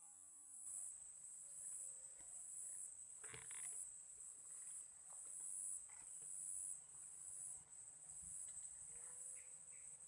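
Insects shrilling steadily at a high pitch, with a pulsing note about once a second. A brief soft knock about three seconds in.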